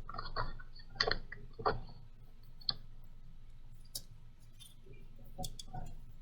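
A drawing tool scratching short strokes on paper, with a few sharp taps or clicks in between.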